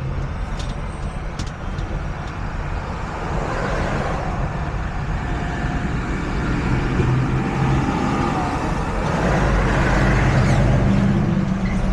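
Semi truck's diesel engine running with tyre and road noise while driving, a steady hum that grows a little louder about nine seconds in.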